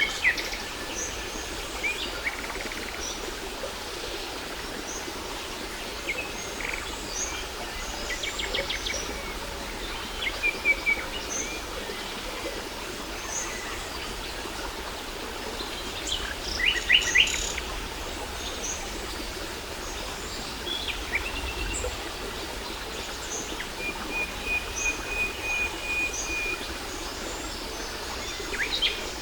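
Several small birds chirping and calling over the steady rush of a waterfall, with two short bursts of rapid trilling, the louder one about midway, and one long level whistle towards the end.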